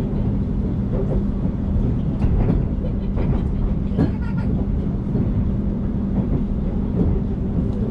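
Passenger train running along the track, heard from inside the carriage: a steady rumble with a constant hum, broken by a few clicks and knocks from the wheels on the rails.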